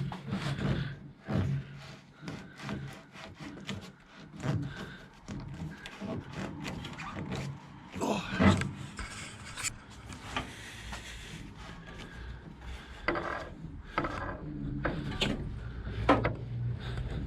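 A screwdriver being worked behind a stiff rubber radiator hose to ease it off its pipe: irregular rubbing and scraping with scattered short clicks and knocks of metal tools.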